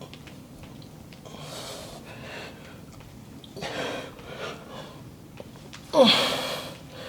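A man breathing hard after a leg exercise: heavy exhales at about one and a half and four seconds in, then a louder exhale with a groan that falls in pitch about six seconds in.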